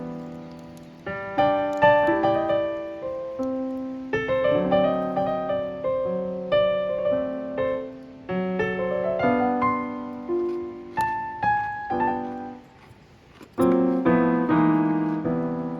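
Solo piano background music, a gentle melody of struck notes that each fade away, with a short near-pause about thirteen seconds in before the playing picks up again.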